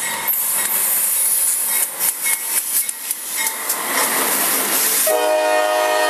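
CSX diesel freight locomotives passing close at speed, with engine rumble and steel wheels clicking over the rails. About five seconds in, a locomotive's multi-note air horn starts sounding a steady chord.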